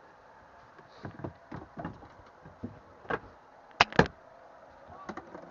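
Scattered knocks and clicks, with two sharp, loud knocks close together about four seconds in.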